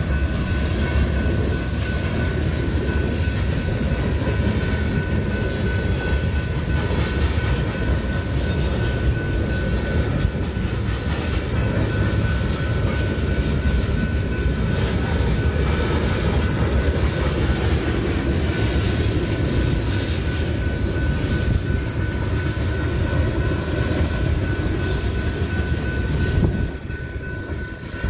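Train running on rails: a steady, loud rumble of wheels and cars with a thin, steady high whine above it. It drops off suddenly near the end.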